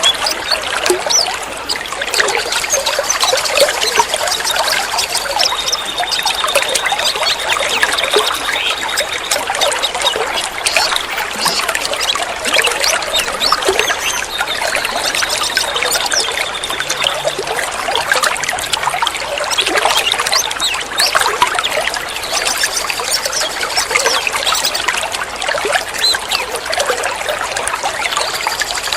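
Water trickling steadily under a busy chorus of songbird chirps and calls, with a high, even trill held for a couple of seconds twice. It is a bird-keeping therapy track meant to rouse a captive long-tailed shrike into singing.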